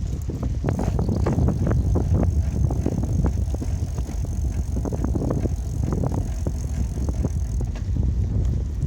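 Bicycle being ridden: wind rumbling on the microphone, with frequent small rattles and knocks from the bike jolting over an uneven surface.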